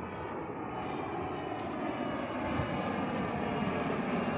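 Private jet's engines at takeoff power: a steady jet engine rush with a faint high whine, growing gradually louder.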